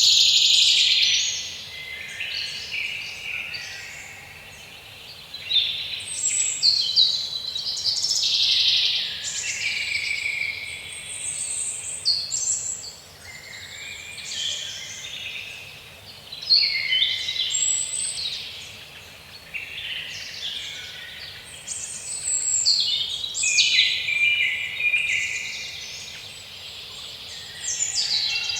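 Forest ambience of songbirds singing and chirping, in repeated busy bursts of high, rapid song lasting a few seconds each, over a faint low background hum.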